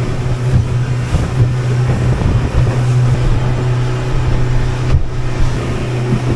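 Boat engine running steadily under way, a constant low hum over a rush of wind and water noise.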